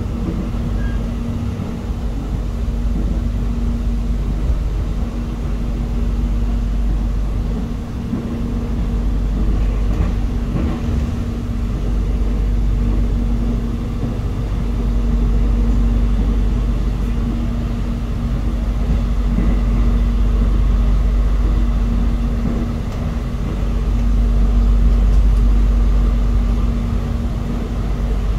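Cabin sound of the Jakarta airport rail link train running: a steady low rumble that swells and eases, with a steady hum under it.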